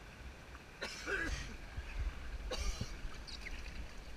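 A person coughing twice, over a steady low rumble.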